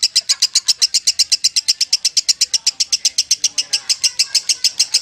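Lovebird in a long 'ngekek' chatter: a fast, unbroken run of sharp, high-pitched notes, about eight a second, held at an even pace.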